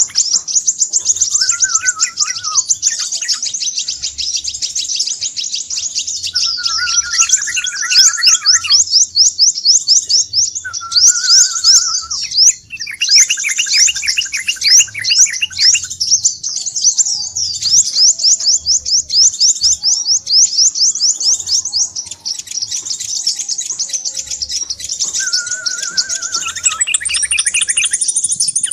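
Crimson sunbird (sepah raja) lure call: rapid, continuous, high-pitched chittering of quick falling chips. Lower, slower trills break in several times.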